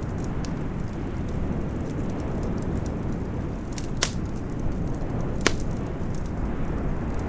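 Wood fire crackling with scattered small pops and two sharper snaps about four and five and a half seconds in, over steady low wind noise.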